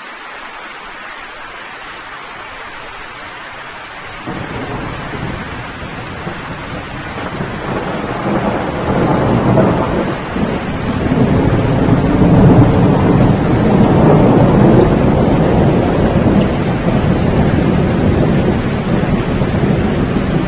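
Steady rain, joined about four seconds in by a low rumble of thunder that swells and rolls on, loudest a little past the middle.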